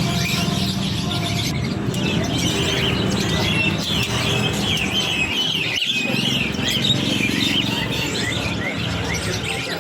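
Many small songbirds chirping and twittering rapidly and continuously, over a low steady hum.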